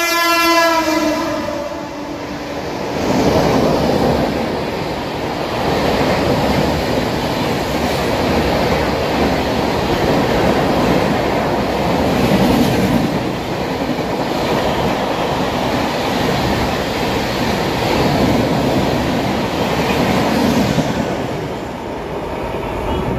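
Train horn sounding one held note that ends about a second and a half in, then a passenger train running past at speed: a steady rumble of wheels on rails with clickety-clack over the rail joints.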